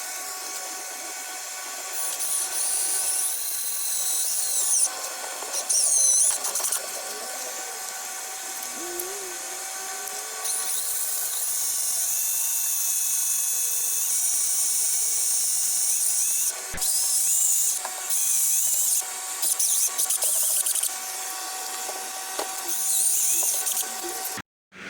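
Electric drill whining as it bores small holes along a car door's lower edge for the rubber seal's retaining pins. It runs in several spells of cutting, most about a second long and one of about six seconds, with a steady motor whine between them.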